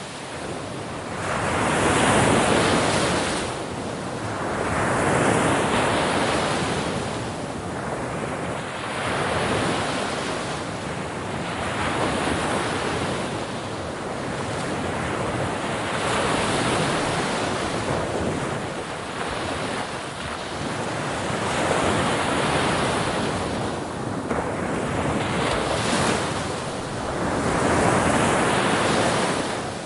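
Ocean waves breaking on the shore, the surf swelling and fading every few seconds.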